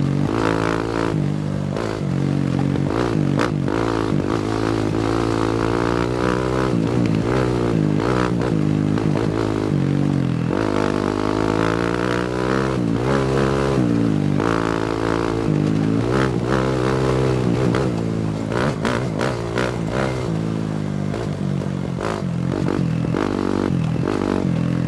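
250cc four-stroke single-cylinder dirt bike engine revving up and falling back again and again under throttle on the trail. Scattered knocks and rattles come from the bike over rough ground, more of them in the second half.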